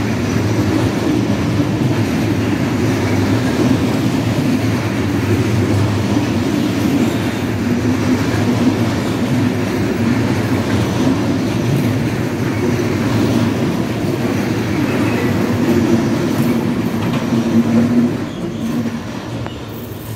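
Freight train of loaded Sgns container flat wagons rolling past, a steady rumble of wheels on the rails. About 18 seconds in, the noise drops off sharply as the last wagon passes and the train moves away.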